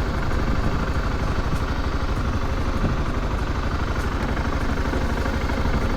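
Motorcycle engine running steadily, with a steady rush of noise over it.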